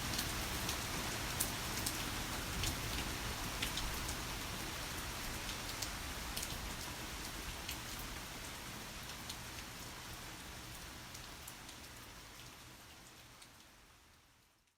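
Heavy rain falling steadily, with scattered sharp drop hits close by. It fades out gradually over the last few seconds to silence.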